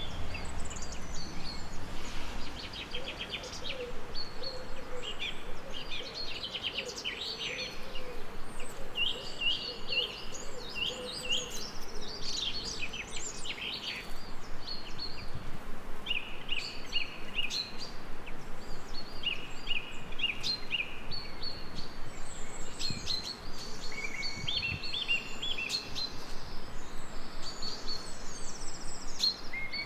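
Songbirds singing a steady stream of short chirping phrases over the even hiss of light rain.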